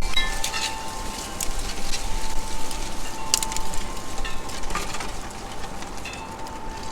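Outdoor feeder ambience: short, high bird chirps and scattered sharp clicks and crackles over a faint steady high hum.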